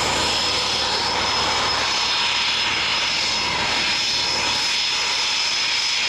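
Military fighter jet's engines heard in flight: a steady rushing noise with a steady high-pitched whine.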